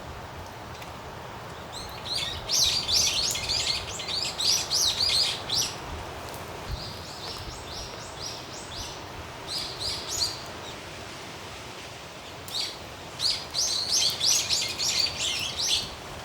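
A songbird singing in three long phrases of rapid, high chirping notes, the first and last louder, over a steady background hiss.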